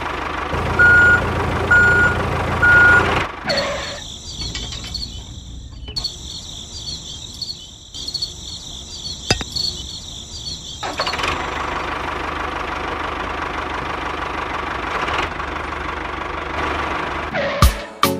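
Steady mechanical hum of a small vehicle motor with three short electronic beeps, like a reversing alarm, in the first few seconds. A thinner, wavering high whine follows for several seconds, then the steady hum returns, and a few sharp clicks come near the end.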